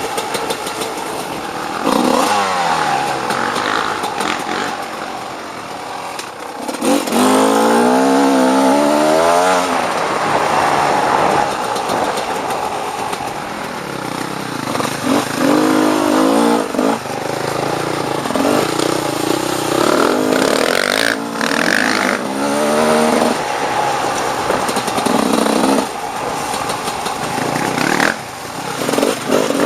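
Off-road dirt bike engine ridden hard, the revs sweeping up and down again and again as the throttle is opened and closed, with a few stronger bursts of several seconds each.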